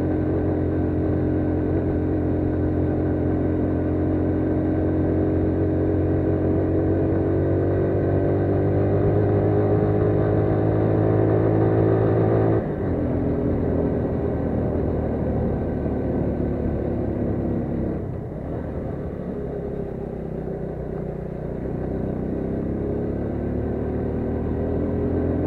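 AKT CR5 180 motorcycle's single-cylinder engine pulling under load up a steep hill, its pitch slowly climbing. About halfway through it drops abruptly as the rider shifts up a gear, then builds again, easing off briefly about two-thirds of the way in.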